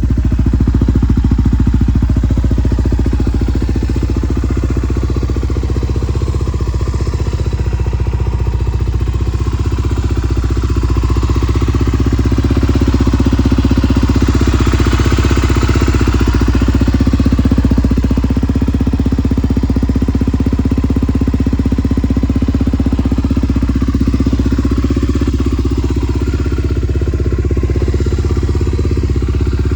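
Honda XR250 Tornado's single-cylinder four-stroke engine idling steadily, with a brief swell about halfway through.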